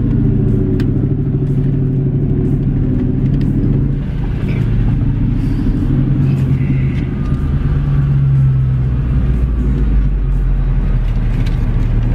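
Car engine running as the car drives slowly, heard from inside the cabin: a steady low drone.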